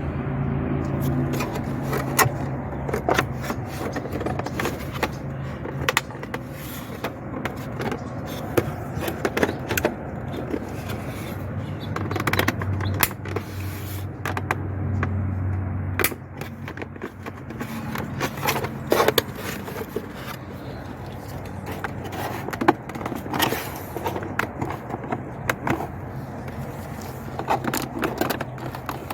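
Scattered clicks, knocks and scrapes of plastic parts being handled as the back half of a Mercedes W203 instrument cluster housing is fitted over the front. A low steady hum runs underneath and drops away about halfway through.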